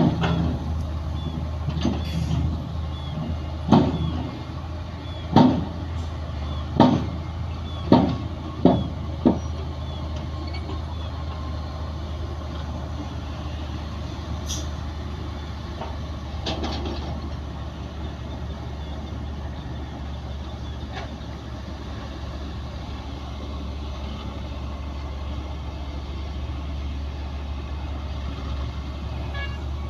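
Heavy earthmoving machinery's diesel engine running steadily. A string of sharp bangs comes in the first ten seconds, about one every second or two, then only the engine drone remains.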